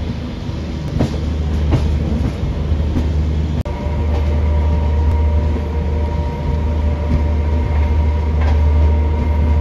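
Tejas Express passenger coaches running along the track: a steady low rumble with scattered clicks of the wheels on the rails. It drops out for an instant about a third of the way in, then carries on with a faint steady whine over the rumble.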